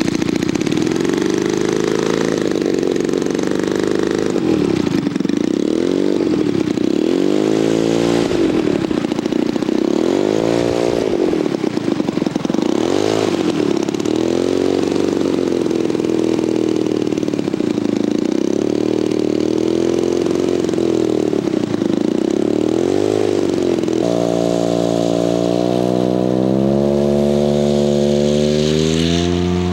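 Scale RC model SPAD 13 biplane's engine in flight, its pitch swooping up and down again and again as the model makes its passes and maneuvers. About 24 s in, a steadier, lower model-engine note takes over and rises slowly in pitch.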